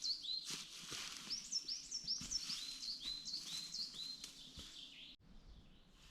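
A small songbird singing a rapid run of short, high up-sweeping chirps, about three or four a second, which breaks off suddenly about five seconds in. Faint clicks and rustles sound underneath.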